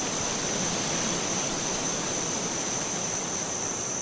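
Woodland nature ambience: a steady high-pitched insect drone over an even hiss.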